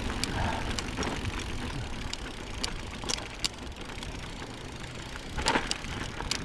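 Electric mountain bike rolling along a dirt trail: steady tyre and riding noise with irregular sharp clicks and rattles, and a louder rattle about five and a half seconds in.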